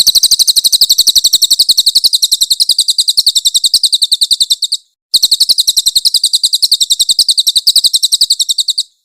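Crested jay calling loudly: a rapid, even run of high, piercing notes, in two long bursts with a brief break about five seconds in.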